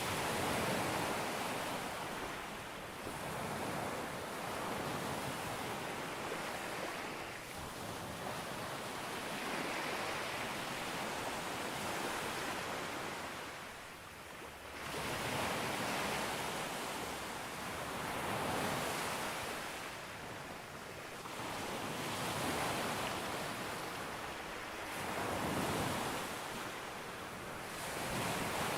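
Sea surf breaking on a beach. The waves swell and wash in, then draw back every few seconds in a steady rhythm.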